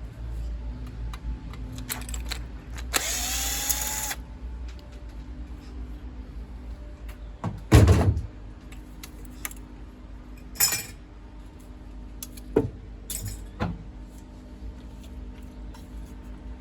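A power drill-driver whirs for about a second, its pitch rising as it spins up. A loud knock and a few lighter metallic clicks and clunks of boiler parts being handled follow.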